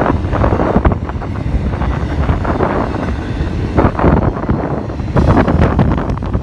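Intermodal freight train rolling past, a loud steady rumble with wind buffeting the microphone.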